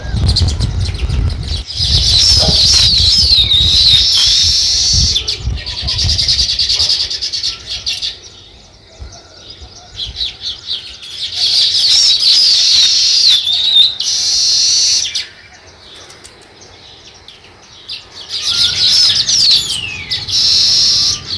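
Small songbirds chattering in three bouts of fast, high chirps and trills, the last ending in a few falling notes. A low rumble runs under the first few seconds.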